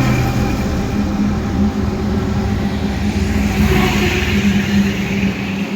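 Highway traffic: vehicles passing at speed over a steady engine drone, with a louder rush of a vehicle going by about three to five seconds in.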